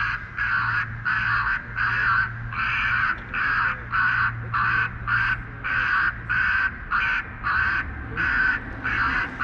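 Electronic anti-bird noisemaker blaring a harsh, crow-like call over and over, about twice a second, every call identical and evenly spaced, with a low steady hum underneath.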